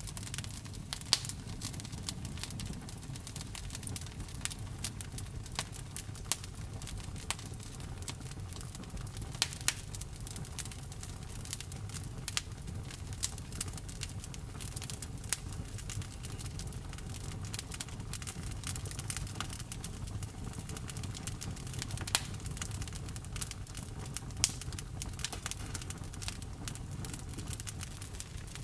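Campfire of burning wood: a steady low rumble with irregular crackles and sharp pops throughout, a few louder snaps standing out.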